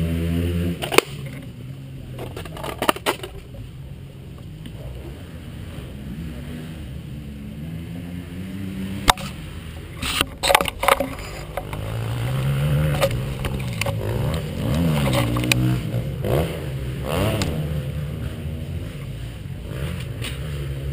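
KTM 350 SX-F's four-stroke single-cylinder engine idling, revved up and back down several times in the second half. A few sharp clicks and knocks come near the start and about halfway through.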